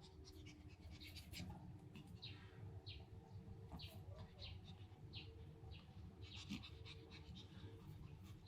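Faint panting of a dog, with scattered small soft clicks.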